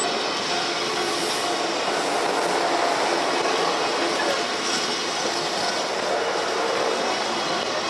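Freight train of tank wagons rolling on the rails, a steady loud run of wheel and rail noise with a faint ringing tone underneath.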